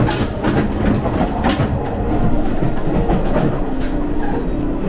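Running noise of a moving diesel railcar heard from the gangway and inside the car: a steady rumble of wheels on rail with clatter and a few sharp knocks, the clearest near the start and about one and a half seconds in.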